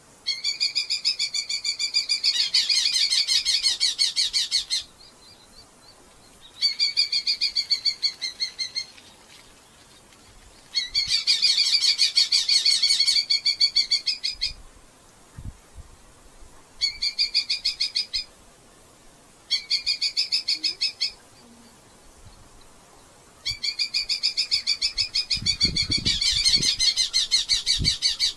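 Red-footed falcons calling in six bouts of fast, high-pitched chattering notes, each bout a few seconds long with short gaps between. A few low thumps sound near the end.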